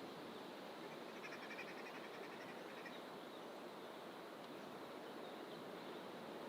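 A small bird gives a rapid, even trill beginning about a second in and lasting under two seconds, followed by a few faint chirps. Under it runs a steady faint rush of outdoor background noise.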